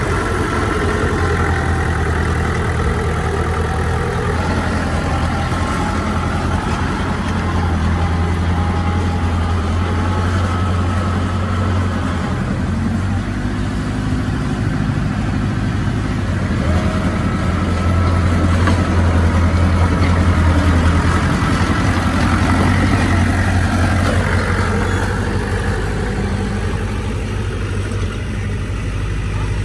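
Heavy diesel engine of earthmoving machinery running steadily under changing load, with a higher whine over it. It swells a little past the middle and eases off near the end.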